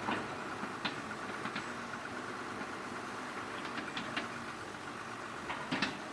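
Excavator engine running steadily, with a few short sharp clanks now and then.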